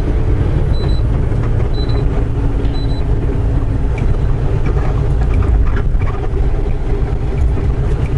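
Semi-truck diesel engine and road noise heard inside the cab while cruising on the highway, a steady drone. Faint short high beeps come about once a second during the first few seconds.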